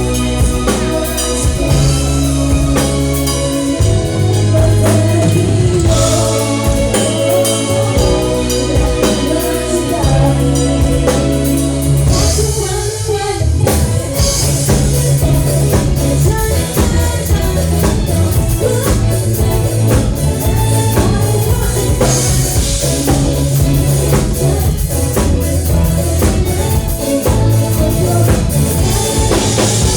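A live band playing a song with a drum kit, held low bass notes and singing. The band thins out briefly about thirteen seconds in, then comes back in full.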